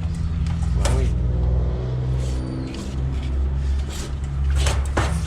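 High-pressure drain jetter's engine running steadily under load while jetting a blocked drain line, with a few sharp knocks about a second in and near the end.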